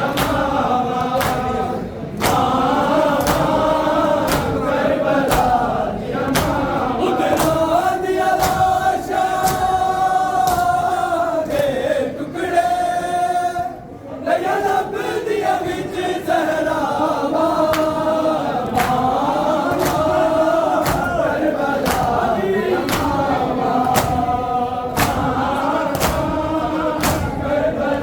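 A group of men chanting a noha (Muharram lament) in unison, with steady rhythmic strikes in time with the chant, typical of matam (chest-beating). The voices thin out briefly about halfway through.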